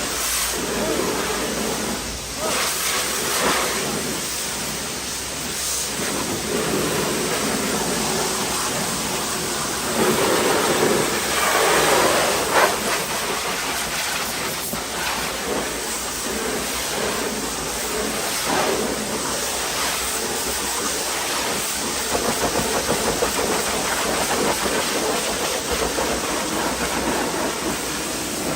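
High-pressure washer spraying water against a car's bodywork: a steady rushing hiss that grows louder from about ten to twelve seconds in.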